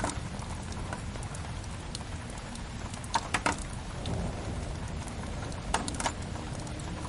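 Steady rain hiss over a low rumble, layered with a crackling wood fire. Clusters of sharp pops stand out about three seconds in and again near six seconds.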